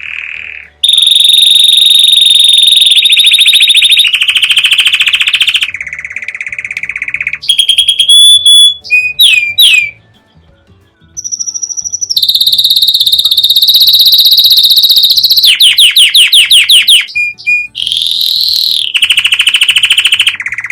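Canary singing a long, loud song of rolling trills, each held a second or two before switching to a new trill, mixed with quick sweeping whistles. There is a short pause about ten seconds in.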